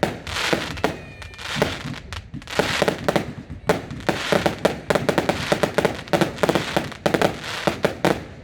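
Fireworks going off in a rapid, dense barrage of bangs and crackles, with a brief whistle about a second in.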